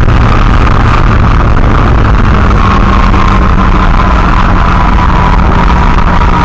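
Big-turbo tuned Audi A5 2.0T engine and road noise heard from inside the cabin while cruising on a highway: a steady low hum with a faint whine that slowly falls in pitch.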